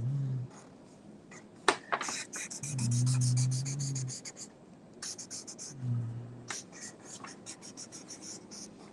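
A pen scratching on paper in quick, repeated drawing strokes. Three times, a low voice hums briefly, the longest and loudest about three seconds in.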